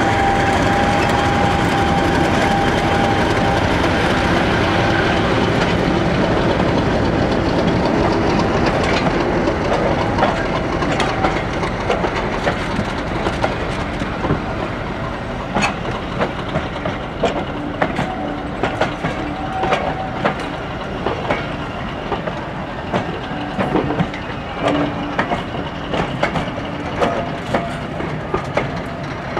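British Rail Class 50 diesel locomotive, its English Electric 16-cylinder engine running with a steady tone as it pulls past and fades away. A train of coaches follows, its wheels clicking and clattering over the rail joints, the clicks growing more frequent later on.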